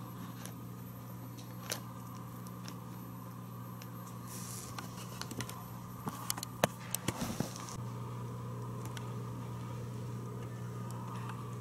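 Steady low hum with scattered faint clicks and two brief rustles, the first about four to five seconds in and a cluster around seven seconds.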